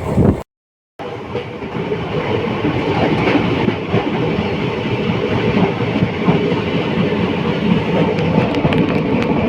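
ICF passenger coaches running along the track, a steady rumble and clatter of wheels on rail. The sound cuts out completely for about half a second near the start.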